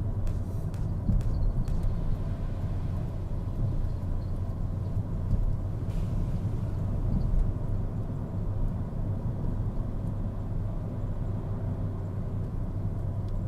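2012 Fiat Punto 1.2 heard from inside the cabin while driving: engine and road noise make a steady low rumble.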